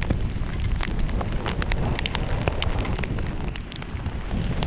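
Rain falling in a storm, with many sharp raindrop ticks over a steady low rumble of wind on the microphone.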